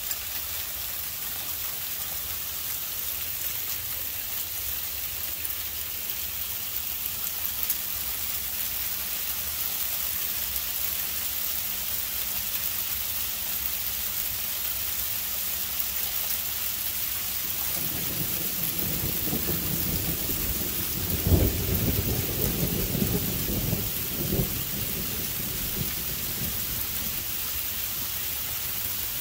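Freezing rain and sleet pattering steadily. About eighteen seconds in, a roll of thunder rumbles in, loudest a few seconds later, then dies away.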